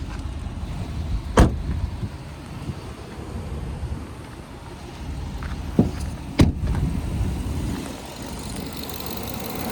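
Ram 2500 pickup truck: a steady low rumble with three sharp knocks, one about a second and a half in and two close together about six seconds in.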